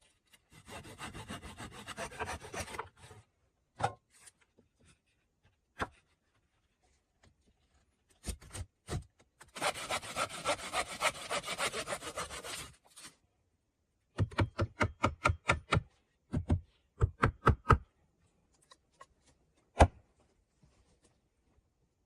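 Handsaw cutting through wood in two spells of quick back-and-forth strokes, followed by a fast run of sharp knocks, about five a second, and one last knock.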